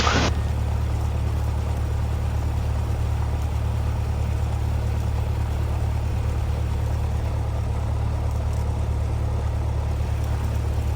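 Cessna 172R's four-cylinder Lycoming piston engine idling on the ground, a steady low drone with the propeller turning at idle.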